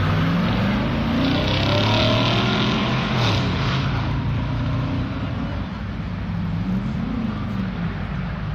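A Honda Civic Si's four-cylinder engine and a Chevy Silverado pickup's engine accelerating hard from a standing start in a drag race. Their pitch rises and breaks several times as they shift up through the gears, then runs on more steadily as they pull away.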